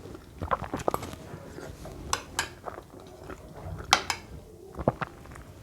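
Cutlery clinking against a dish while eating, several sharp separate clicks.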